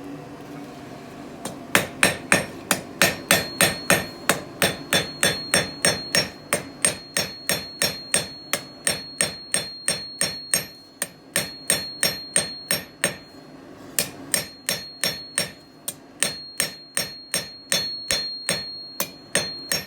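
Blacksmith's 2.5-pound hammer striking steel on an anvil in a steady run of about two blows a second, refining a forged taper, with a high ring lingering between blows. There is a short pause about two-thirds of the way through.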